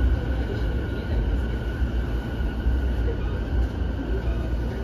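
Interior running noise of an E233-5000 series electric commuter train: a steady low rumble of wheels on rail, with a faint steady whine above it.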